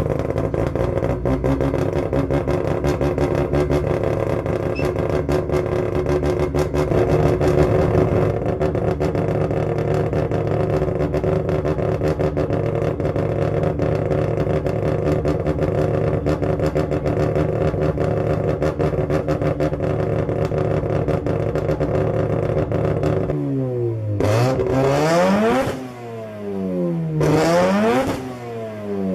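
Mazda rotary (Wankel) engine idling steadily with a rapid pulsing exhaust note, then revved twice near the end, each rev climbing sharply and dropping back to idle.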